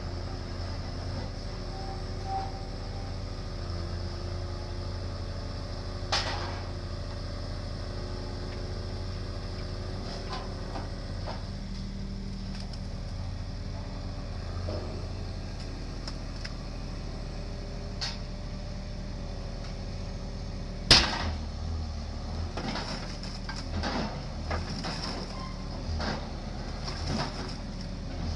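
Construction drilling rig running with a steady low drone, with scattered metallic knocks and clanks; the sharpest knock comes about three-quarters of the way through.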